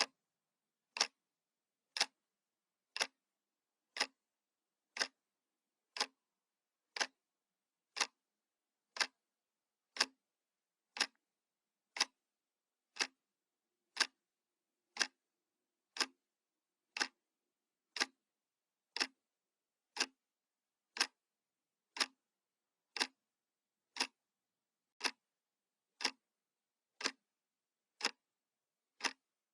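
Analog clock ticking once a second: single sharp, even ticks with silence between them.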